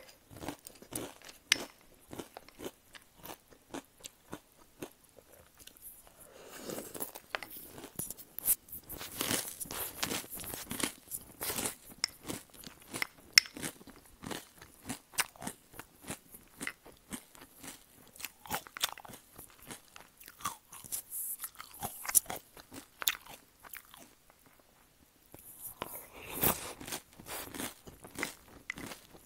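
Close-miked crunching and chewing of crunchy breakfast cereal: a steady run of crackly bites, with two heavier stretches of dense crunching, one about a third of the way in and one near the end.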